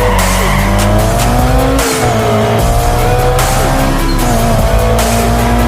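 Race car engine sound effect revving up through the gears, its pitch climbing and dropping back at each shift about every two seconds, over background music.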